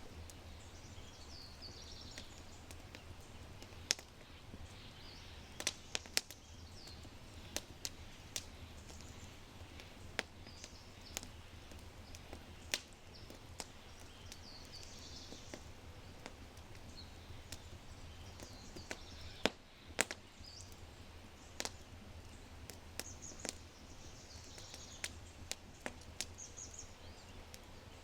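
Oak fire crackling in a brick fireplace with sharp, irregular pops, over a low steady rumble. Small birds sing short, high chirping phrases several times through it.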